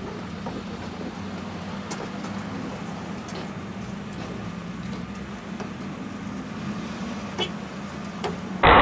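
Steady low hum of a car driving on the road, with a few faint ticks. Near the end it cuts suddenly to much louder rushing road and engine noise.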